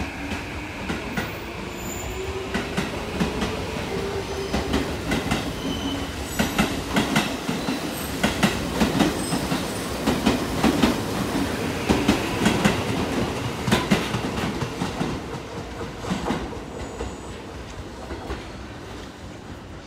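Train running past on the tracks, its wheels clacking over the rail joints in a quick, uneven run that is loudest around the middle and fades toward the end. A tone glides in pitch during the first few seconds.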